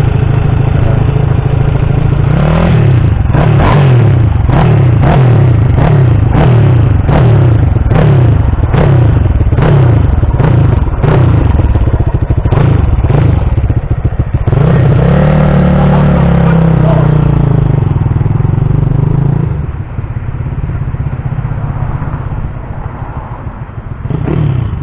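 Kawasaki KSR 110 minibike's small single-cylinder four-stroke engine being revved in quick throttle blips, about one and a half a second, for some ten seconds, then one longer rev that rises and falls before it drops back to a steady idle.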